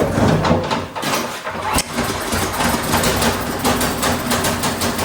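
Gas snowblower engine starting abruptly and running, with one sharp click about two seconds in. It is running on old gas, which the owner suspects calls for a carburetor cleaning.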